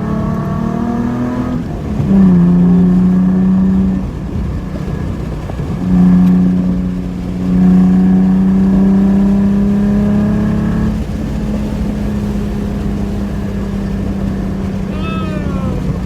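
Straight-piped Nissan 300ZX's 3.0-litre V6 pulling under throttle: a loud, steady exhaust drone whose pitch creeps upward. It is broken by a few short dips and surges as the throttle changes or a gear is taken.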